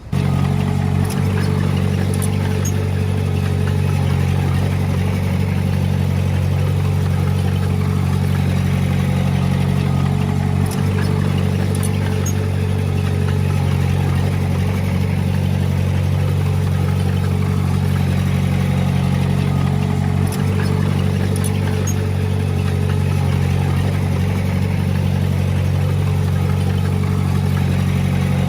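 Heavy diesel engine of earthmoving machinery running steadily at constant speed, a deep drone with a steady higher whine above it and a few faint knocks.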